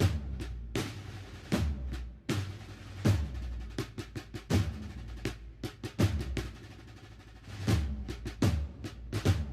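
Band drum section playing a slow processional march beat without wind instruments: a bass drum stroke about every three-quarters of a second, with snare drum strokes and rolls between.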